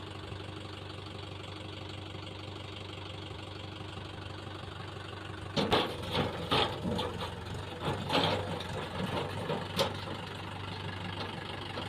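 Heavy diesel engine idling steadily. About halfway through, a run of loud, irregular knocks and rattles starts over it.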